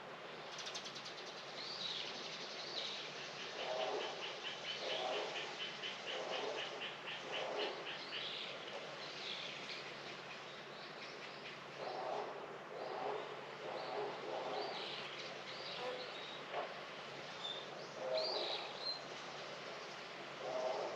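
Garden birdsong: several birds calling, with a fast, even trill of high notes from about three to eight seconds in, and lower calls coming in short groups.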